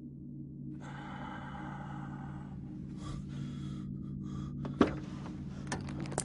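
A low steady hum, slowly growing louder, with a breathy rush from about a second in that breaks up and fades. Near the end come a few sharp clicks, the loudest about two-thirds of the way through.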